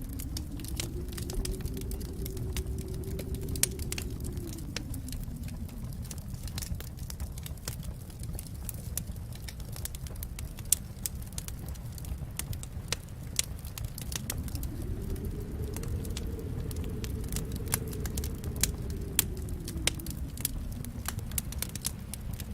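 Fireplace fire crackling: frequent sharp pops and snaps over a steady low rumble of flame. A faint low tone rises and falls twice, near the start and again from about two-thirds in.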